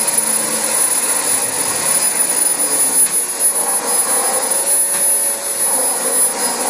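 Dyson DC25 upright vacuum cleaner running steadily on carpet, with a high-pitched motor whine over its rushing air noise.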